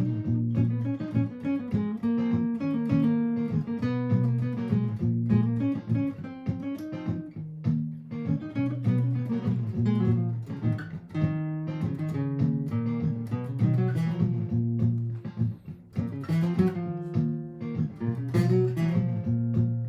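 Martin GPCPA4 acoustic-electric guitar playing through a looper pedal: a repeating strummed chord pattern with improvised single-note lead lines over it.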